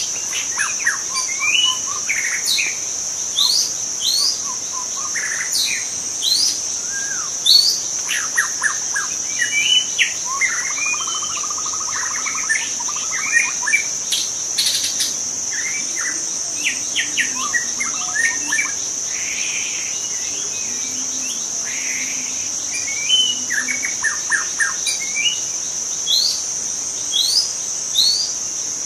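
Young white-rumped shama singing a varied, broken song of whistled notes, quick sweeps and rapid rattling trills, over a steady high-pitched insect drone.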